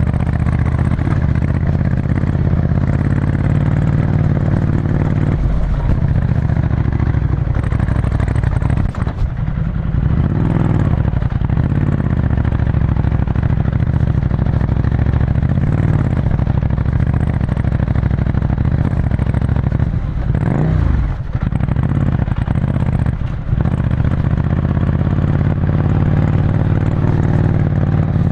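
Ducati Scrambler Desert Sled's air-cooled L-twin engine running through a full Termignoni exhaust while being ridden. The note holds steady, with a few brief drops where the throttle closes and the pitch swings down and back up.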